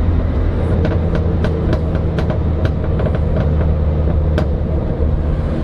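Toyota Corona's new exhaust popping and crackling on the overrun with the accelerator released: irregular sharp pops over the engine's steady low drone, one louder pop about four and a half seconds in.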